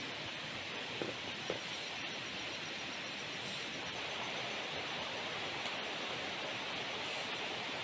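Heavy rain falling steadily in jungle, an even hiss with two faint ticks about a second in.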